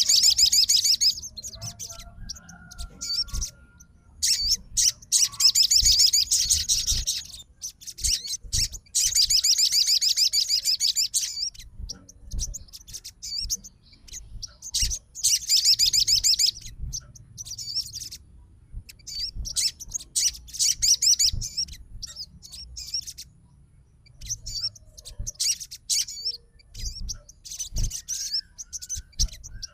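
Crimson sunbird (sogon) singing in its agitated 'fighter' style, the song used to call a rival. It gives long, fast, high-pitched trilling phrases of two to three seconds, with shorter chirps in between.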